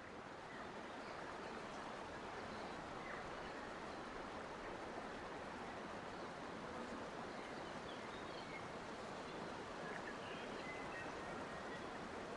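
Forest nature ambience: a steady, even rushing noise with faint, scattered high bird chirps.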